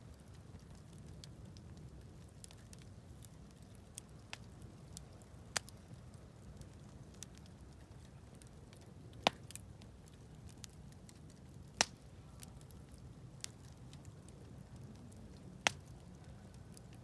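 Wood campfire burning with scattered crackles and a few loud sharp pops, over a low steady rumble.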